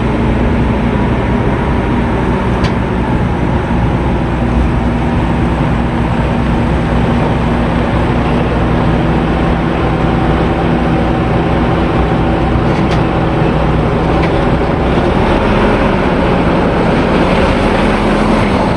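Truck engine running steadily under a light load, its pitch sagging and rising slightly near the end as the engine speed changes.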